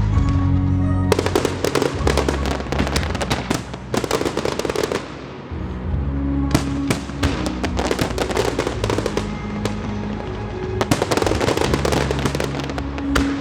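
A fireworks display with rapid volleys of bangs and crackles, coming in dense clusters with shorter lulls between them, over music with sustained low notes.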